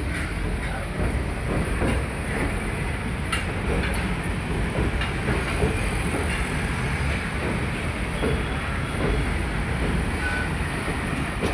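Train running on the rails: a steady rumble with faint, irregular knocks and a brief high tone near the end.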